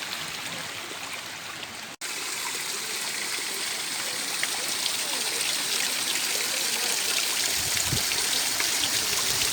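Mountain stream running over stones, a steady rush of water. It drops out for an instant about two seconds in and comes back slightly louder, with a brief low rumble near the end.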